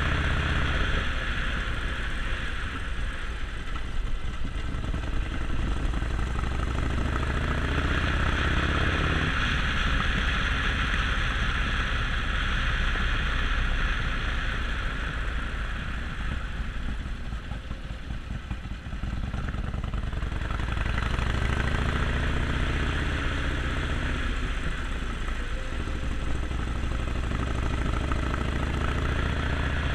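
Harley-Davidson Sportster Forty-Eight's 1200 cc air-cooled V-twin running under way. The engine pitch holds steady for stretches and rises and falls twice with the throttle, over a steady rushing noise.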